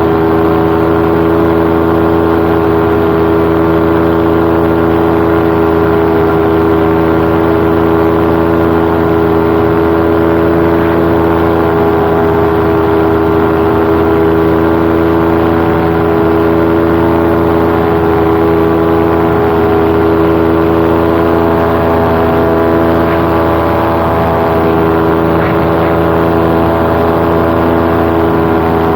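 Paramotor engine and propeller running at a steady cruise setting in flight, giving one unchanging drone with no change in pitch.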